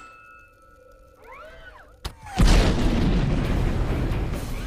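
Movie explosion sound effect: quiet at first, then a sudden loud boom about two and a half seconds in that dies away slowly into a long low rumble, with music underneath.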